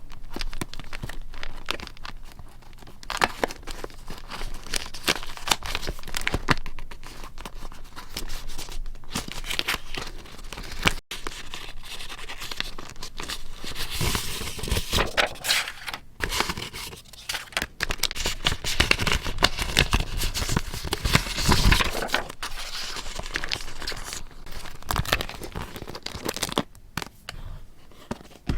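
Paper being handled close up: crinkling, rustling and tearing, with many small crisp clicks, busier in the middle stretch.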